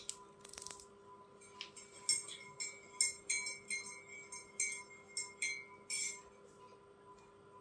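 Budgerigars chirping: a run of short, high chirps, about two a second, from about two seconds in to about six seconds.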